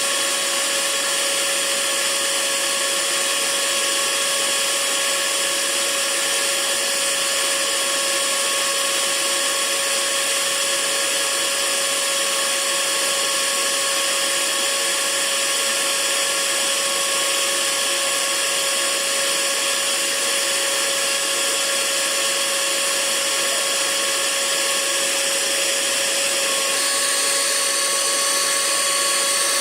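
Hair dryer running steadily: a continuous airy hiss with a constant motor whine on top, its tone shifting slightly near the end.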